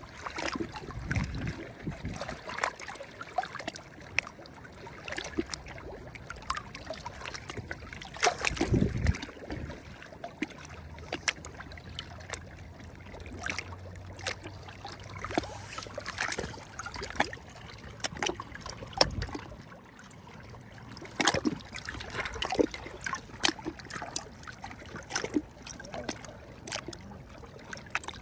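Small sea waves lapping and splashing at the shore, with a steady patter of crackling splashes and heavier waves washing in about a second in, around nine seconds in and around nineteen seconds in.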